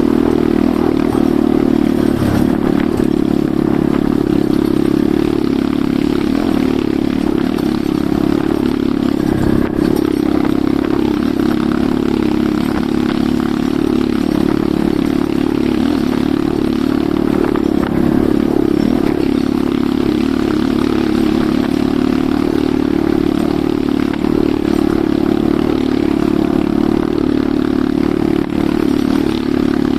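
Enduro motorcycle engine running at a steady pitch while riding, with no revving up or down.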